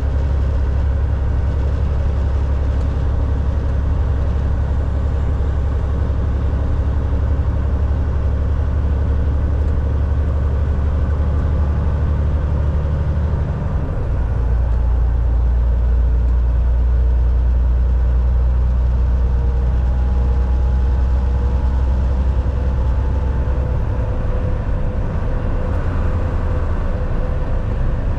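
Volvo VNL 760 semi truck driving, heard from inside the cab: a steady low engine drone with road noise. About halfway through, the drone drops lower in pitch and gets a little louder.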